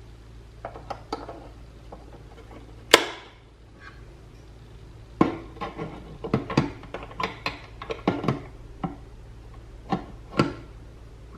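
Clicks and knocks of hard parts of a steel coffee grinder being handled, with one sharp knock that rings briefly about three seconds in and a quick run of clatter in the second half. The grinder's motor is not running.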